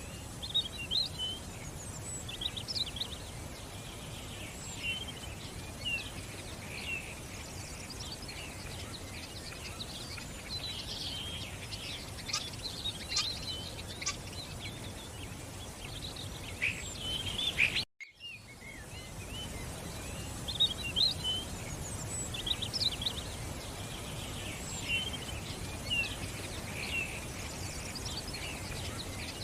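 Many songbirds chirping and warbling over a steady background hiss. The sound drops out for an instant about eighteen seconds in, then the birdsong resumes.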